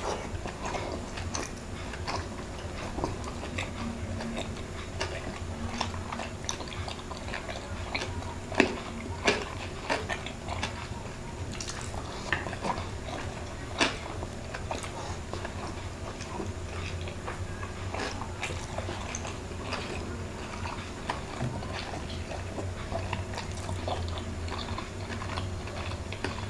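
Close-up crunching and chewing of crispy deep-fried chicken skin: a run of short, sharp crackles with wet chewing between them, the loudest crunches about nine and fourteen seconds in.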